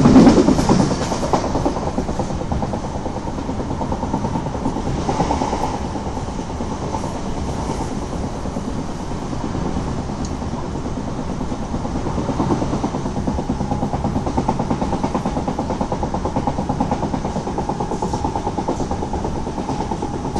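Steady running noise of a moving passenger train, wheels on the rails, heard from inside the carriage.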